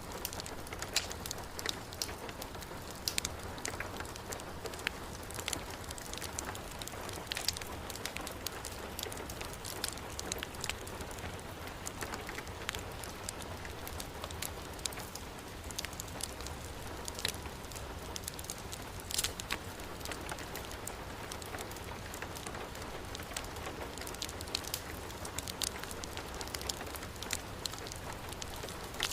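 Heavy rain falling steadily, mixed with the scattered sharp pops and crackles of a wood fire burning in a fireplace.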